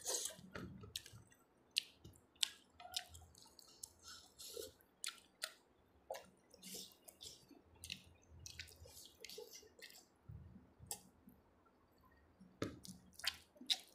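A person chewing food close to a clip-on microphone, with irregular short, sharp mouth clicks and lip smacks.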